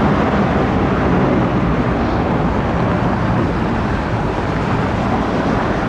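Jet airliner's engines at takeoff thrust, a loud steady rumble and rush of noise that eases slightly in the second half.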